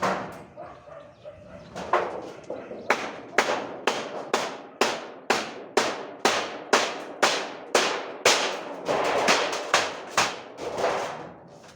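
A long series of sharp knocks, about two to three a second, each with a short ringing tail, getting denser and noisier near the end.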